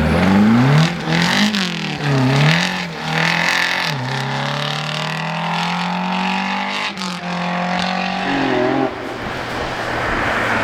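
Rally car engine revving hard, its pitch swinging up and down several times, then a long rising pull through a gear. It lets off about seven seconds in and fades.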